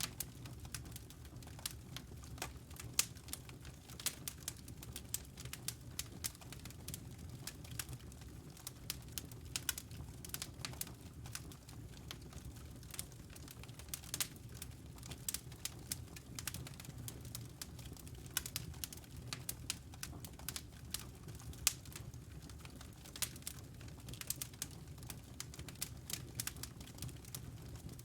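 Fire in a fireplace crackling: irregular sharp pops and snaps, many each second, over a steady low rumble.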